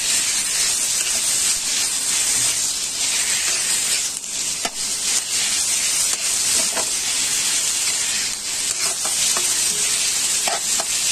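Chicken mince and onions sizzling in oil in a kadhai, stirred with a spatula, with a steady hiss and now and then a short click of the spatula against the pan.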